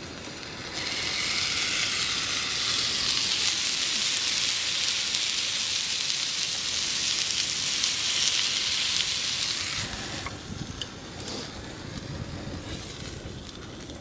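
Gyoza sizzling loudly in a hot frying pan. The sizzle starts suddenly about a second in, holds steady, then dies down near ten seconds to a quieter crackle.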